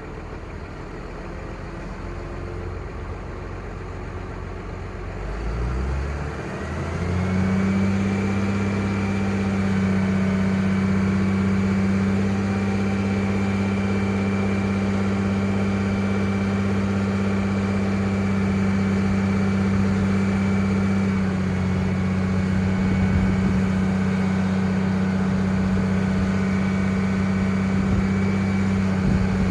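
Cummins 5.9-litre six-cylinder turbo diesel idling low, then about six seconds in revving up and holding at a steady higher speed with a high whine over the engine note, easing slightly near two-thirds of the way through.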